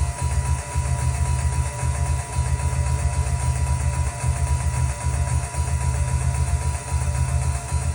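Synthesizer playing a train sound effect: a low, pulsing imitation of train wheels clattering, going on steadily in a loose rhythm.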